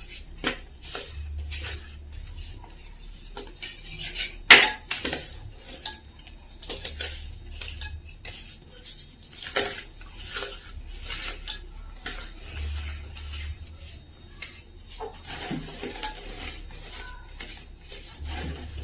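A brittle material being crumbled, with clinks and scrapes of a utensil against a dish. It makes an irregular run of short crisp crackles, the loudest a sharp crack about four and a half seconds in.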